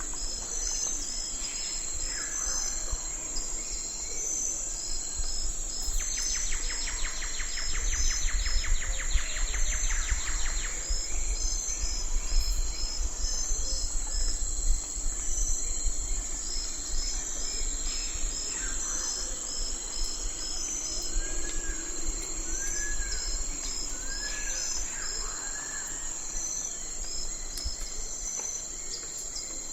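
Night forest ambience: a steady high-pitched chorus of insects with crickets chirping in an even rhythm. A rapid trill joins from about six to eleven seconds in, and a few short rising-and-falling calls come later.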